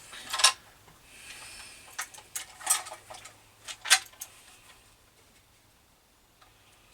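Metal twist drill bits clinking and rattling as they are handled in a drill index, searching out a number 6 drill: several separate sharp clinks, the last about four seconds in.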